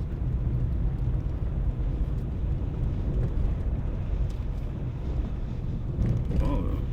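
Car driving along a road: a steady low rumble of engine and road noise. About six seconds in, a brief wavering pitched sound rises over it.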